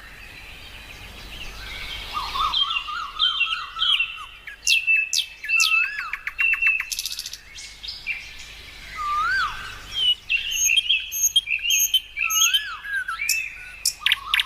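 Several birds chirping and calling, a mix of short chirps, quick trills and a rising-then-falling whistle that comes back every few seconds.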